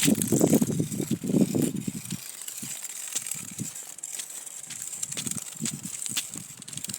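Footsteps and rustling through dry leaves and twigs, loudest in the first two seconds, then scattered crackles, over a steady high-pitched hiss.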